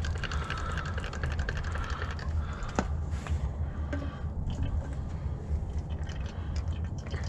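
Small clicks and liquid handling sounds from work on a semi truck's hydraulic clutch line while it is being bled of air, over a steady low rumble. One sharper click comes about three seconds in.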